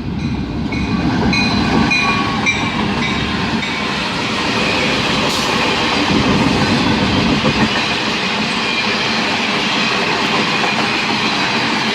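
Norfolk Southern freight train passing close by: the locomotives rumble past over the first several seconds, then the cars roll by with steady wheel-on-rail noise. A high tone repeats about twice a second during the first few seconds.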